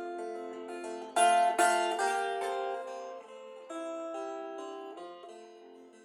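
Guitar solo: picked notes ringing over sustained chords, with a louder struck chord about a second in, then dying away quietly near the end.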